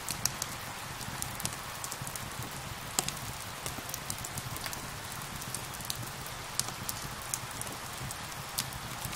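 Steady rain hiss mixed with a wood fire's crackling: irregular sharp pops, a few each second, over the even wash of rain.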